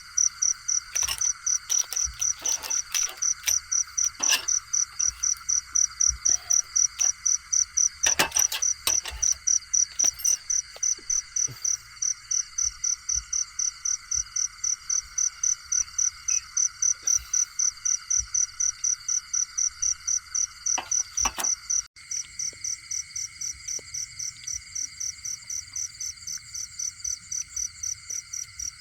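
Night insect chorus: a loud high chirp repeating evenly about three times a second over a steady high trilling of other insects. Scattered sharp clicks and knocks in the first ten seconds.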